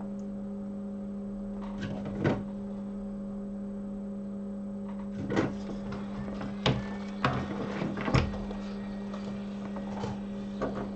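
Steady electrical hum from the microsoldering rework equipment, with several light clicks and taps from tools on the bench, most of them near the middle.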